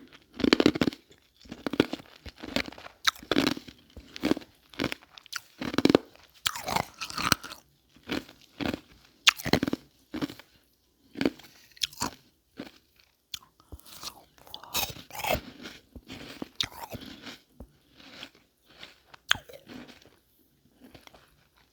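Frozen ice marbles being bitten and chewed close to the microphone: a steady run of irregular crisp crunches, roughly one every half second to a second.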